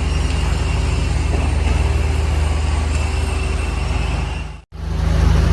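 A vehicle running steadily on a rough road, engine and road noise with a strong low hum; the sound drops out briefly near the end.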